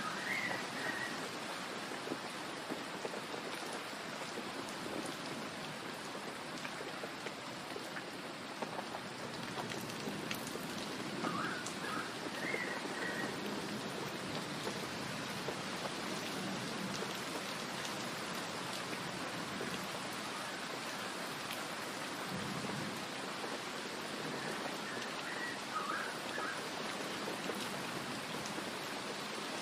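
Steady heavy rain falling, an even hiss without pauses. Short high chirps, like a bird's, break through three times.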